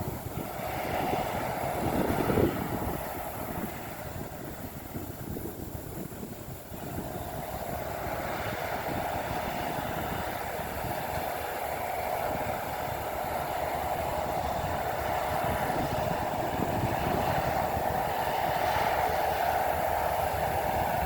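Bulldozer working at a distance: its diesel engine running under load with a steady rumble, one louder knock about two and a half seconds in, and the sound dropping back between about four and seven seconds before growing steadily louder.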